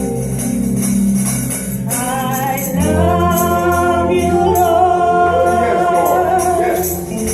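Gospel worship music with a tambourine shaking steadily over bass and band. Voices come in singing about two seconds in and hold long notes.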